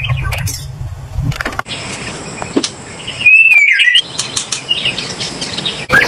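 White-rumped shama singing: a loud whistled phrase that slides up and down about halfway through, with sharp ticking notes around it. The sound changes abruptly twice where the recording is spliced, and a low rumble lies under the first part.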